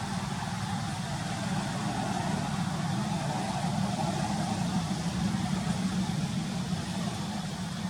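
A steady low engine hum, like a motor vehicle idling.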